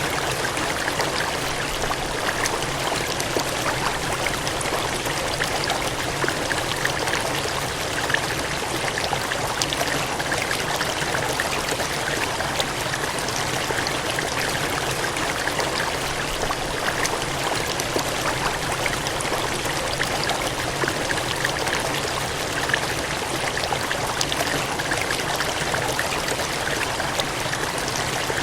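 Steady rush of cascading water: an even splashing hiss flecked with many small droplet splashes.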